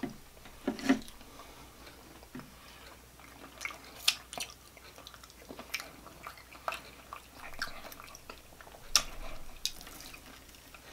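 Close-up mouth sounds of a person eating: soft chewing with scattered wet smacks and clicks.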